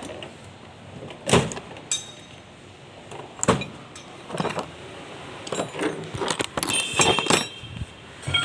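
Metal tools and parts knocking and clinking, a string of separate sharp knocks about a second apart with a brief metallic ring near the end.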